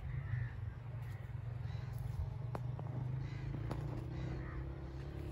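Birds calling outdoors, a short call repeated about four times, a second or so apart, over a steady low rumble.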